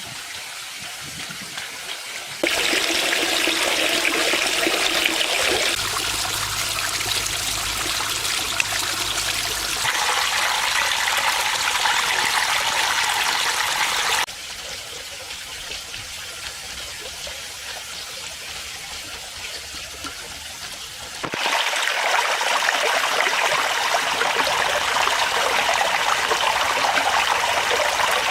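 Water from a small built waterfall splashing and trickling into a pond. The flow jumps louder or quieter several times at cuts between shots.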